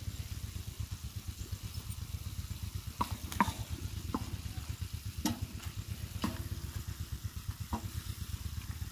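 Minced mutton and sliced onions frying on a tawa, stirred with a wooden spoon: about six sharp knocks and scrapes of the spoon against the pan from about three seconds in. A steady low throbbing rumble runs underneath.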